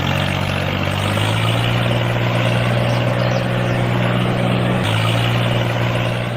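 A small motor running steadily with a constant hum, its pitch shifting slightly about a second in and again near the end.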